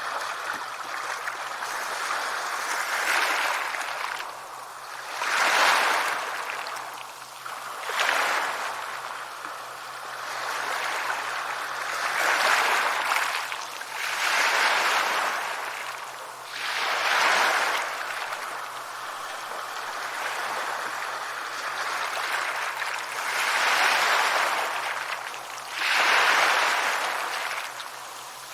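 Sea waves breaking and washing up a shore, surging every few seconds over a steady wash of water.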